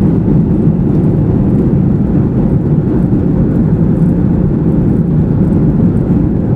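Steady cabin noise inside an airliner in flight: an even, deep rumble of jet engines and rushing air.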